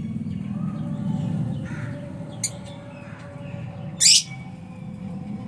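Lovebirds calling: a short chirp about halfway, then one loud shrill screech near the end, over a steady low hum.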